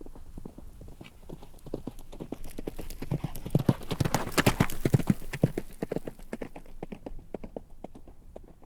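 Horse hooves clip-clopping on hard ground in a quick, even rhythm. The hoofbeats grow louder to a peak about halfway, then fade away as the horse passes by.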